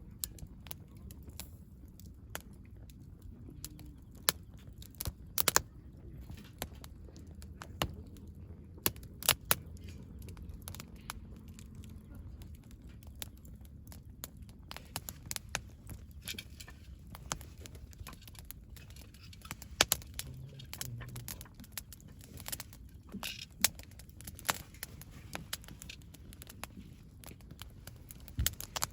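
Wood campfire crackling, with irregular sharp pops and snaps over a low steady rumble of the flames.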